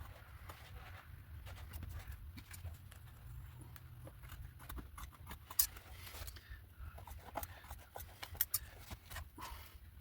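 Scissors snipping paper with scattered short clicks, neatening the torn edge of a collaged page.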